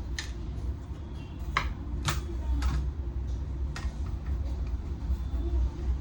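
A handful of sharp clicks and taps, irregularly spaced, from parts of the opened monitor being handled during disassembly, over a steady low hum.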